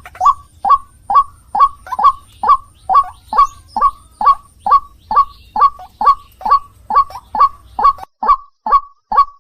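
White-breasted waterhen (ruak-ruak) calling: a loud, evenly repeated single note, about two a second, each a short downward-sweeping 'kwak'.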